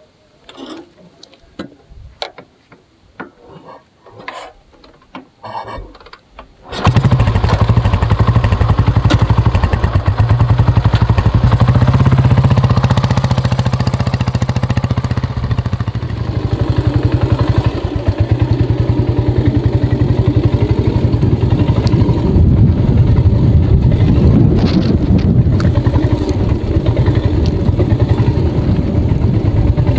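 A few light mechanical clicks and knocks, then about seven seconds in a Royal Enfield Bullet's single-cylinder cast-iron engine starts abruptly and keeps running loudly, its pitch rising and falling a little.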